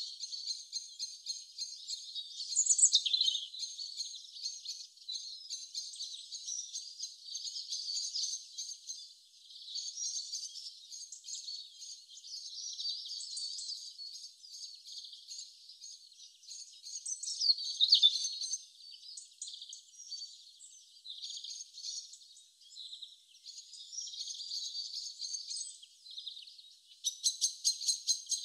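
Small birds chirping and singing in a dense, continuous chorus of short calls, with a louder falling whistle about three seconds in and again midway. A fast, even jingling rattle starts near the end.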